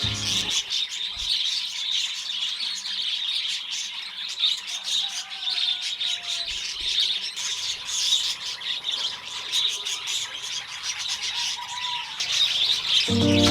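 A colony of small caged parrots chirping and chattering nonstop, with many calls overlapping.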